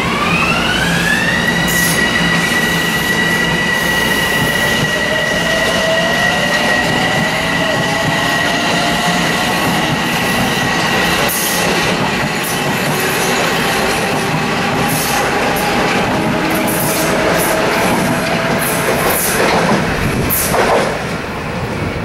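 Commuter trains on curved track: a high-pitched whine and squeal that rises in pitch over the first second or two, then holds steady, with short clicks and clatter of wheels over the rails growing in the second half as a train approaches.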